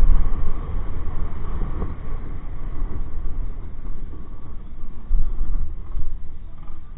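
Motorcycle riding noise: a heavy, gusty low rumble of wind buffeting the microphone, with road and engine noise underneath.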